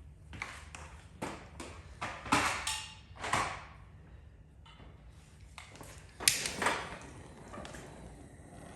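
Tools and parts being handled and set down: a string of sharp clicks and knocks, the loudest two about two and six seconds in, with a faint steady blowing noise coming up near the end.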